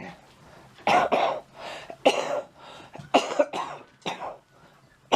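A person coughing in several short fits, about a second in, near two seconds and again three times from about three seconds; the coughing of someone who is sick.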